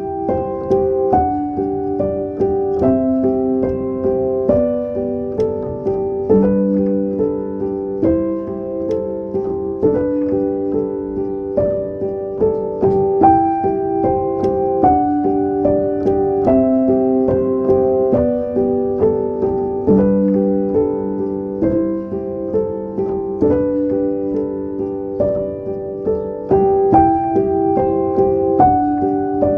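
Background music: a gentle solo piano piece of steady, evenly paced notes.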